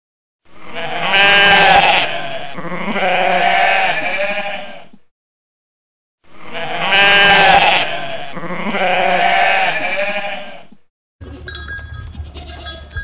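Sheep bleating: two long, wavering bleats, then the same two bleats again after a short silence. Near the end, small bells start clinking over a low hum.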